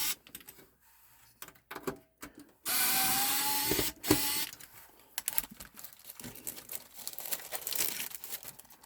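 Cordless drill-driver running in one burst of about a second, its motor whine rising slightly, followed by scattered clicks and rattles of metal computer parts being handled.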